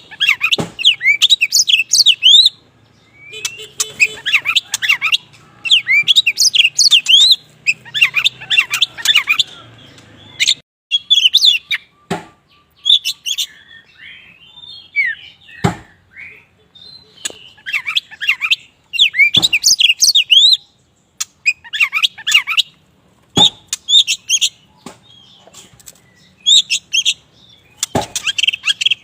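Black oriental magpie-robin (kacer wulung) singing loud, varied phrases of rapid whistles and chirps with short pauses between them. Several single sharp knocks fall between the phrases.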